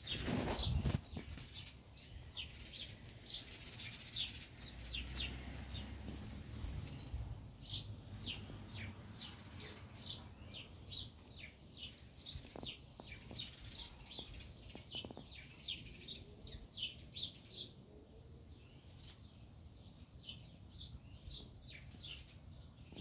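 Small birds chirping in short, high, repeated notes, several a second, with a brief loud noise in the first second.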